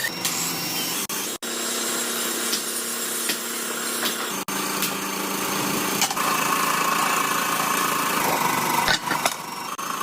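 Workshop machinery running steadily with a low hum, broken by a few sudden short dropouts and growing brighter and louder about six seconds in.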